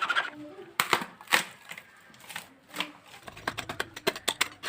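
Pieces of dry acacia bark being worked by hand: a few separate sharp cracks and knocks, then from about three seconds in a fast run of short rasping strokes, like a blade cutting or scraping the bark.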